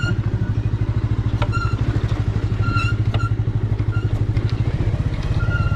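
Bajaj Avenger 180's single-cylinder engine running steadily as the motorcycle is ridden, with a fast, even low pulse. A few short high-pitched chirps sound over it every second or so.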